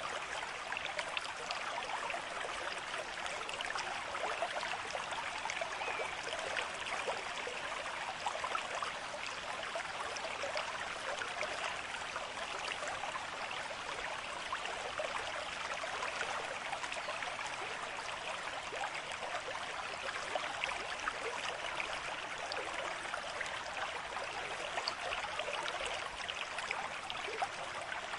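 A stream of running water, flowing in a steady, unbroken rush.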